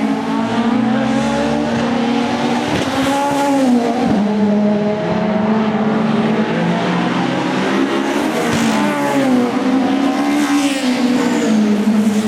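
Several sports saloon racing car engines running hard on track, their overlapping engine notes rising and dropping in pitch as they accelerate and change gear.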